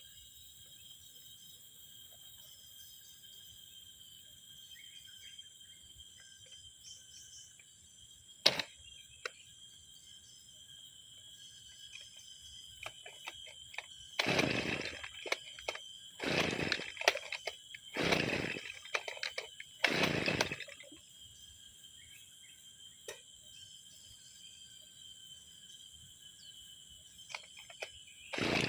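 Brush cutter engine that has sat unused for six months being pull-started again and again: four short bursts a couple of seconds apart and another near the end, without the engine catching and running. A single sharp click comes earlier.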